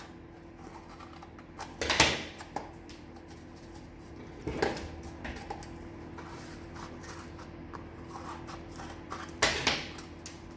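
Scissors cutting into a cardboard kitchen-roll tube: three louder cuts well spaced out, with light clicks of handling the cardboard between them.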